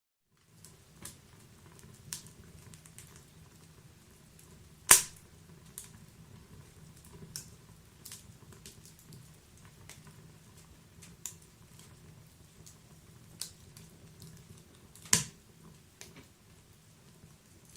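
Wood fire in a fireplace crackling: scattered small snaps and pops over a low steady rush of the flames, with two sharp, loud pops, about five seconds in and again about fifteen seconds in.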